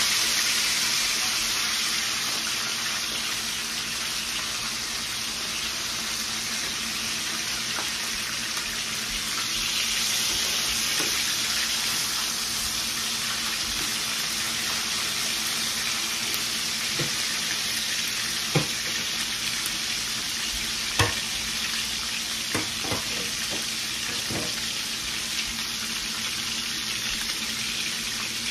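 Fish and egg-battered eggplant slices sizzling steadily in hot oil in two frying pans, with a few sharp clinks of metal tongs against a pan in the second half.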